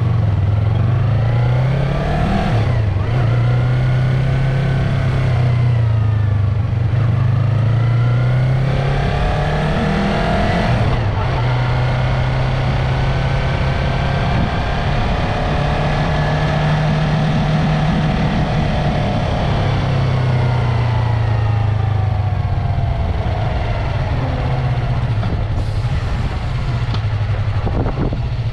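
Yamaha MT-03's parallel-twin engine and exhaust running under way, the engine note rising and falling with throttle and gear changes.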